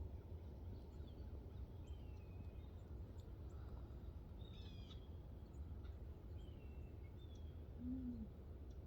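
Faint outdoor ambience: a steady low rumble with birds calling, several short falling chirps scattered through it. A brief low-pitched sound near the end is the loudest moment.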